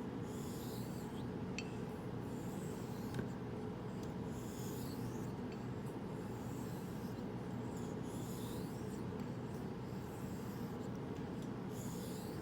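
Straight razor blade being stroked across a whetstone, a series of soft high scraping swishes each under a second long, repeating every one and a half to three seconds over a steady low hum.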